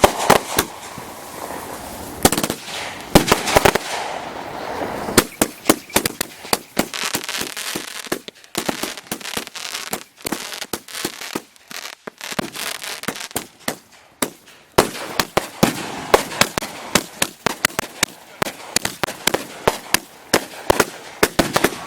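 Multi-shot consumer fireworks cakes firing in rapid succession: a dense string of sharp bangs and crackling pops, several a second, with hissing in the first few seconds.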